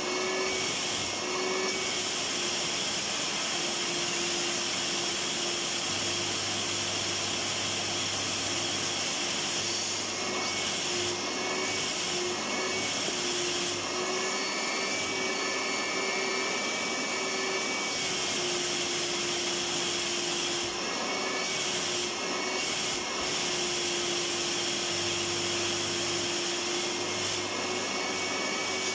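Electric vacuum cleaner running steadily: an even rushing noise with a constant motor whine.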